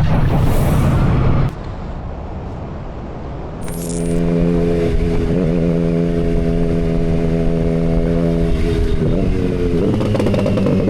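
Motorcycle engine: a loud run of engine noise that cuts off abruptly about a second and a half in, then after a quieter stretch another engine settles into a steady, even pitch, which shifts again near the end.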